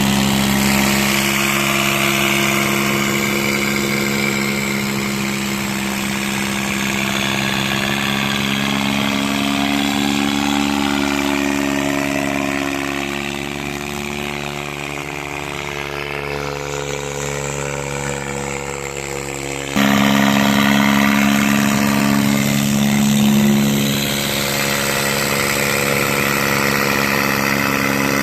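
Diesel tractor engines running steadily. About twenty seconds in, the sound changes abruptly and gets louder.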